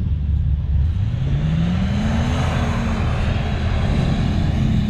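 Off-road vehicle engine revving: its pitch climbs over about a second and a half, then holds and eases off, under a rushing noise that swells midway.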